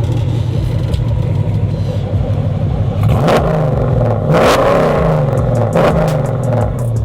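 Car engine idling, then revved, its pitch climbing and falling back, loudest around the middle.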